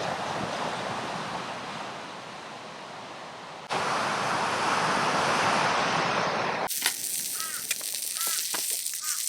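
Outdoor coastal ambience in abrupt cuts: a steady rushing noise, a louder rush from about four seconds in, then quieter air with several short bird calls near the end.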